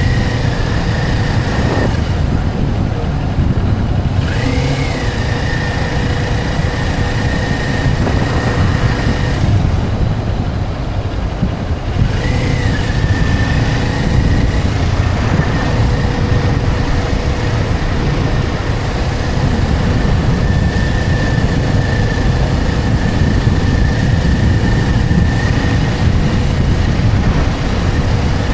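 Motorcycle riding at road speed: heavy wind rush on the microphone over the engine running steadily, with a thin steady whine that drops out twice and comes back.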